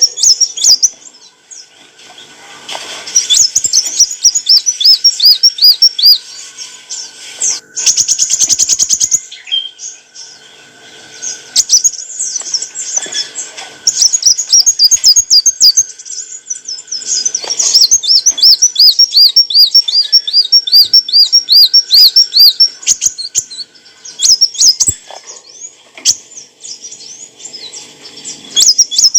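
Kolibri wulung, a small sunbird, singing: bursts of fast, high, repeated chips and trills, with brief pauses between phrases.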